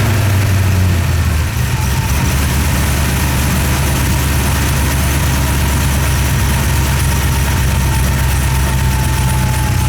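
2009 Cadillac CTS-V's supercharged 6.2-litre LSA V8 idling, its fast idle easing down about a second and a half in, then running steadily with a faint thin whine above the engine note.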